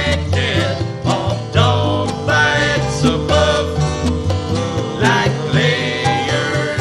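Country-style band music with plucked strings over a steady bass rhythm, with no sung words.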